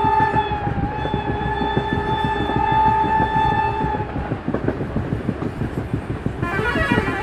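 Train horn blown in a long steady blast, with a short break about half a second in, stopping about four seconds in, over the rumble and clatter of a moving passenger train heard from inside a carriage. Guitar music starts near the end.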